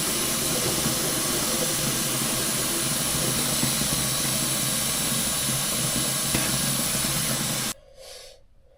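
Steady, loud hissing rush of noise with no clear rhythm, which cuts off suddenly near the end, leaving a quiet room with a few faint clicks.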